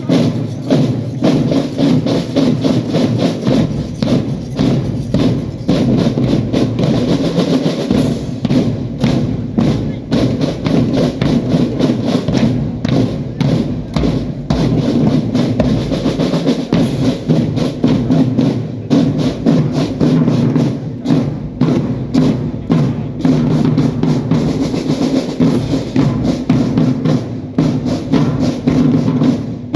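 Marching drum band playing a tune: snare, tenor and bass drums beating steadily under sustained trumpet melody.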